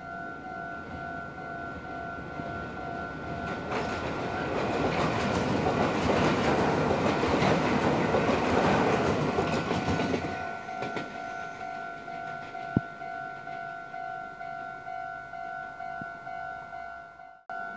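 Meitetsu 5000 series electric train passing over a steel truss bridge: its rumble and wheel clatter swell over a few seconds, peak and fade after about seven seconds. A steady pulsing two-tone ring, like a level-crossing alarm, runs underneath throughout, and there is one sharp click after the train has gone.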